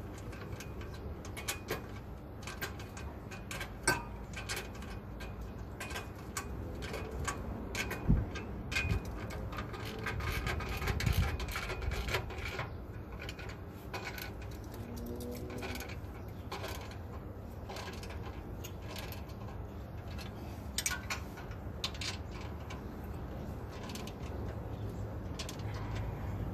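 Metal tools clinking and scraping as nuts are tightened onto the hitch receiver's mounting bolts with a wrench, heard as scattered clicks and knocks over a low steady hum.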